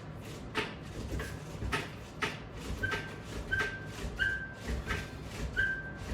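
Resistance band and strap attachment gear clicking and squeaking in a steady rhythm, once about every half second, with each leg extension against the bands. The short high squeak joins the clicks from about a second in.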